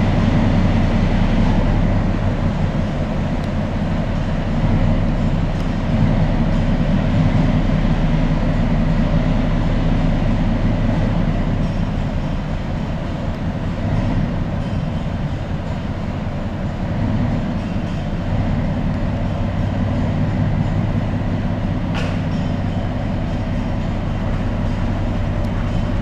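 Engineering train moving slowly through a rail tunnel, its engine giving a steady low hum over a rumbling haze, with a single sharp click near the end.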